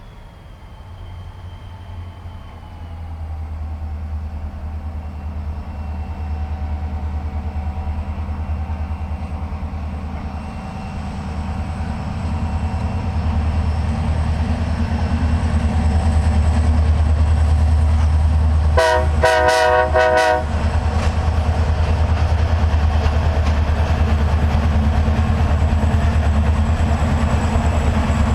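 Diesel freight locomotive approaching, its low engine drone growing steadily louder, then passing with a steady rumble. About two-thirds of the way through, its multi-tone air horn sounds a quick series of short blasts.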